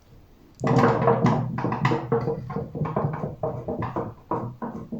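A geared AC motor, rewired as a generator, is spun hard by a pulled rope: a sudden start about half a second in, then a pitched whir pulsing about three times a second that slowly dies away as the rotor coasts.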